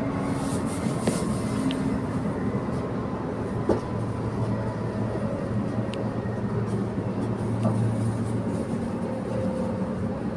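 Interior running noise of a Transperth B-series electric multiple-unit train: a steady rumble with a low electric motor hum that grows stronger for a few seconds in the middle, and a few faint clicks and rattles.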